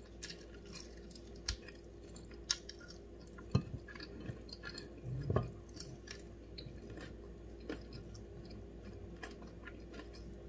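Close-up eating sounds: a person chewing and gnawing meat off a bone, with scattered soft mouth smacks and clicks at irregular intervals.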